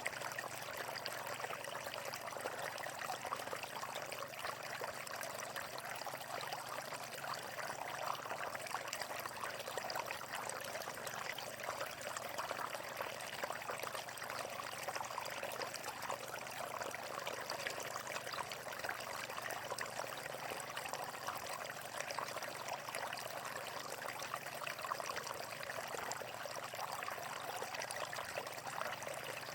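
Flowing water of a stream running steadily, an even rushing and splashing that never pauses.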